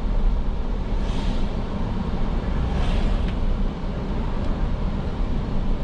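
Steady low rumble of a car's engine and tyres heard from inside the moving car, with faint swishes of hiss about one and three seconds in.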